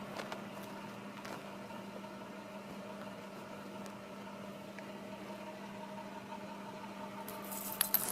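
A steady low machine hum with fainter higher tones above it. A few small clicks and a brief rustle come near the end.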